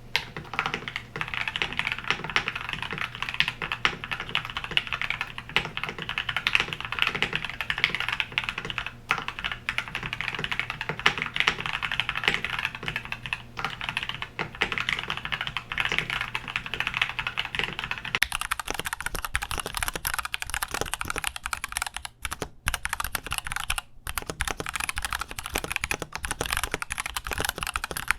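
Continuous fast typing on a mechanical keyboard fitted with Gateron Milky Yellow linear switches, a dense run of key clacks. About eighteen seconds in, the sound changes character, turning brighter and thinner as the test moves between the stock switches and the lubed-and-filmed switches.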